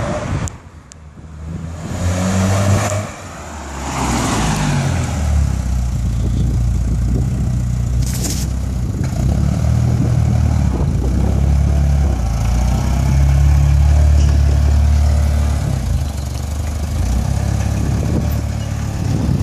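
Mk3 Ford Cortina's freshly fitted, overbored 2.1-litre Pinto four-cylinder engine as the car drives up and pulls in. The engine note builds a few seconds in and runs strongest around the middle as the car comes close.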